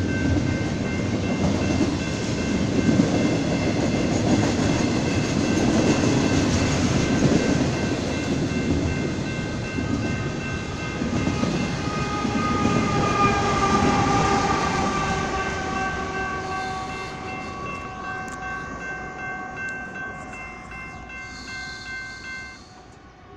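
Union Pacific double-stack container freight train rolling past, its wheels and cars rumbling and clattering, loud at first and fading as the train moves away. Several steady high tones ring over it, typical of a grade-crossing bell, and stop suddenly near the end.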